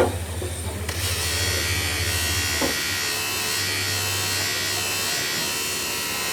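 A workshop machine or power tool running steadily, with a hissing whir over a low hum; the hum cuts out with a faint click a little under three seconds in.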